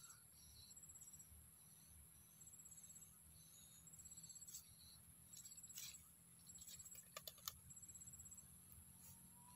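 Faint insects in the evening: short, rapid chirping trills repeating about once a second over a steady high-pitched drone. A few sharp clicks come about three-quarters of the way through.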